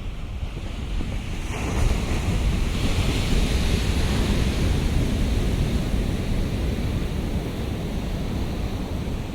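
A heavy shore-break wave breaks about a second and a half in, and the whitewater hisses loudly before slowly washing down, over a steady low rumble of surf.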